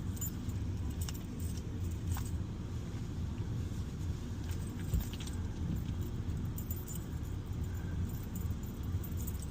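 Steady low road and engine rumble inside a moving car's cabin, with scattered faint light clicks.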